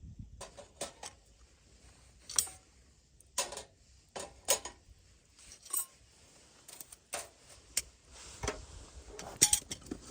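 Irregular sharp clinks and knocks of small hard objects being handled, about fifteen over ten seconds, some briefly ringing.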